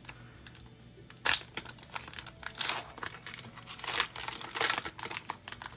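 Foil Pokémon booster pack wrapper crinkling and tearing as it is opened, in a string of irregular crackly rustles starting about a second in.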